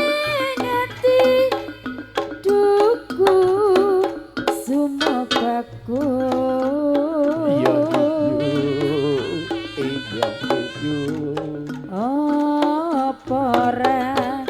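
Live Javanese campursari music played for a jaranan performance: a singer's wavering melodic line over frequent sharp hand-drum strokes.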